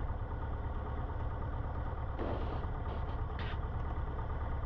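Cessna 150's four-cylinder Continental O-200 engine idling steadily with a low, even drone, heard from inside the cockpit.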